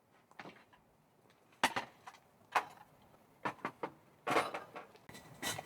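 A string of irregular knocks and clatters, about seven in a few seconds, with a denser cluster near the end.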